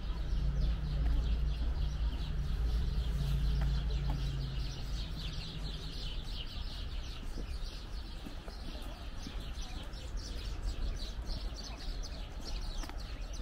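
Birds chirping busily over a steady low street rumble, with a vehicle engine hum that fades out about halfway through.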